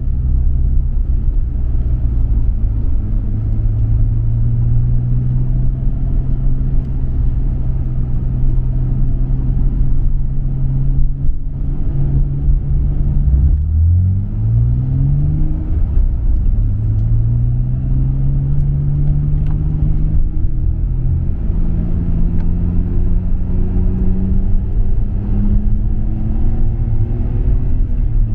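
Nissan Skyline R34 GT-R's RB26DETT twin-turbo straight-six with a MINES aftermarket exhaust, driven on a mountain road. It holds steady revs for about twelve seconds, then revs climb quickly and drop back as it shifts. After that it pulls up through the revs in a long, gradual rise.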